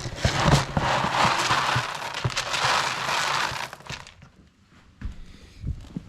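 Dry chicken feed being handled, a crackling, rustling hiss lasting about four seconds. It then goes quiet apart from two soft thumps.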